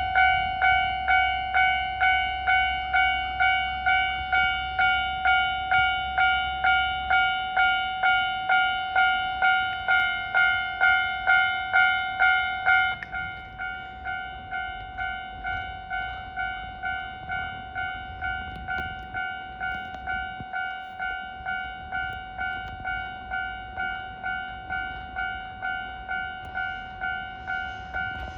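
Japanese railway level-crossing warning bell ringing, a bright electronic ding repeated about twice a second. It drops noticeably in level about halfway through and keeps ringing.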